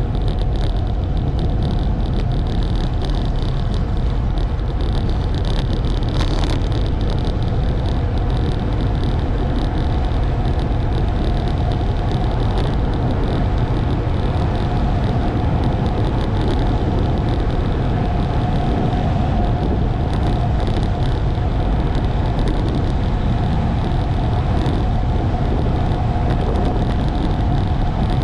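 Steady wind rush on the microphone with the tyre hum of a road bike rolling over pavement.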